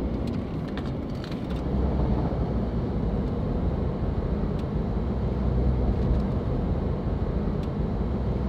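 A car driving: steady engine and road rumble, low and even.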